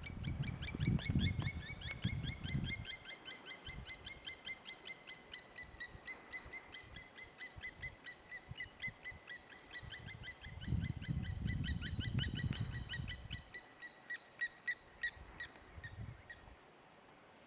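A bird calling a long series of short, rapidly repeated whistled notes, several a second, stopping near the end. Low rumbling comes twice, at the start and about ten seconds in, and is louder than the calls.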